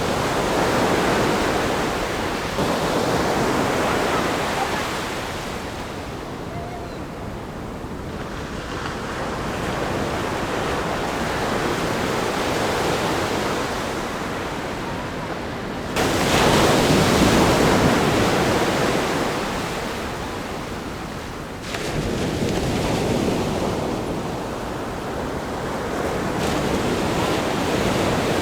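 Ocean waves breaking on a rock groin and washing up a sandy beach, a continuous surf noise that swells and ebbs, with two sudden crashes, about 16 seconds in and again about 22 seconds in. Some wind buffets the microphone.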